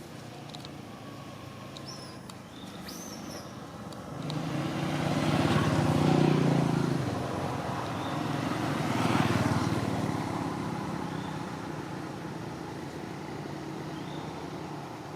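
Motor vehicles passing by, the engine sound swelling and fading twice, loudest about six and nine seconds in.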